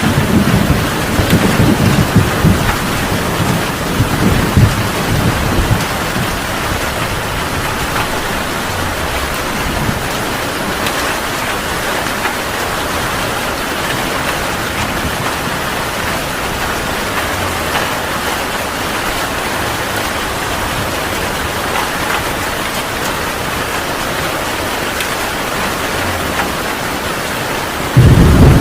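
Heavy rain falling steadily, with a low rumble of thunder dying away over the first few seconds and a loud thunder rumble breaking in suddenly near the end.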